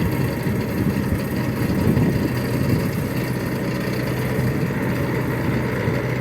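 Bobcat skid-steer loader's diesel engine running steadily at a constant pitch.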